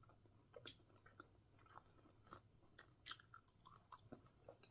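A person quietly chewing a cookie with the mouth closed: faint, irregular small wet mouth clicks, a few louder ones about three and four seconds in.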